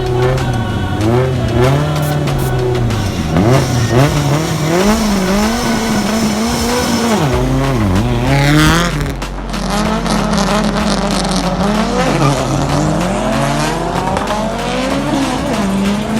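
Engines at a drag race revved hard again and again, the pitch climbing and dropping about once a second, with more than one engine overlapping at times. A brief high screech comes about halfway through.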